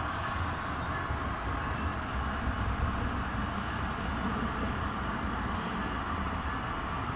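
Train running steadily, a continuous low rumble with rolling noise over it.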